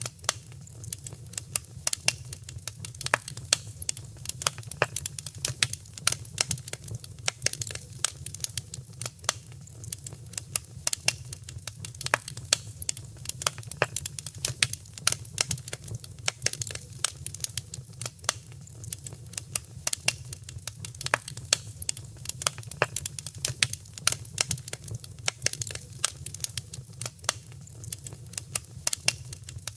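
Wood fire crackling: dense, irregular sharp pops and snaps, several a second, over a steady low rumble of the burning fire.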